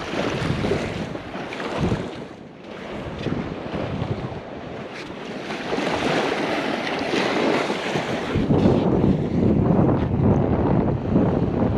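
Strong wind buffeting the microphone over the steady wash of breaking surf. The gusts grow louder and rougher after about eight seconds.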